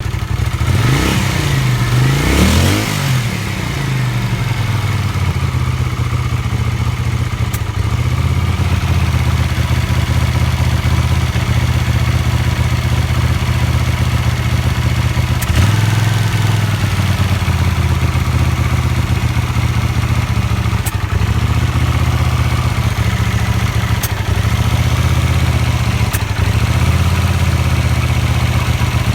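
Honda GL500 Silver Wing's V-twin engine blipped a few times at the start, then running steadily at idle with a few brief hiccups where it stumbles, on freshly rebuilt carburettors at its first start.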